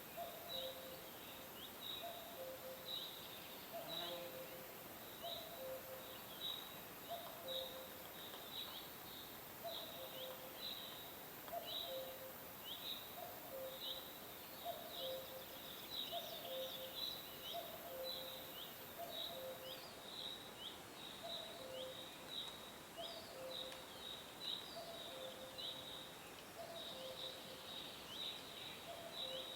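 Birds chirping: short, quick downward chirps repeating two or three times a second, over a lower call that repeats about once a second. A thin, high, steady whine runs alongside and cuts off about two-thirds of the way in.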